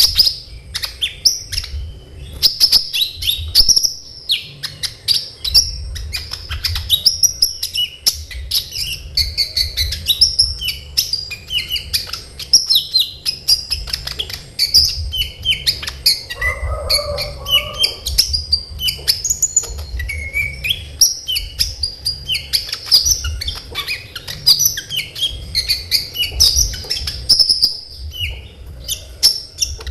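A sunbird (the 'kolibri ninja' of Indonesian bird-keepers) singing continuously in full song: a fast, dense run of sharp high chirps and short trills. A brief lower-pitched sound comes in about sixteen seconds in.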